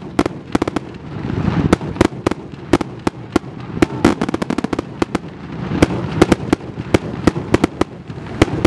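Fireworks display going off: many sharp bangs in quick, irregular succession, several a second, over a continuous rumble that swells and fades.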